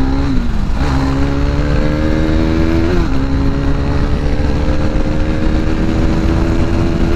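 KTM RC 390's single-cylinder engine pulling hard under acceleration, its pitch climbing steadily, with two gear changes about half a second and three seconds in where the revs drop and then climb again. Steady wind rush over it.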